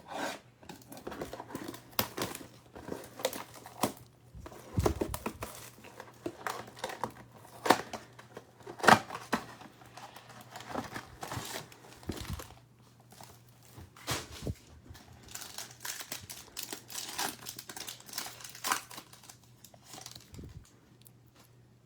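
Plastic trading-card pack wrappers being torn open and crinkled by hand, an irregular run of crackles and rustles.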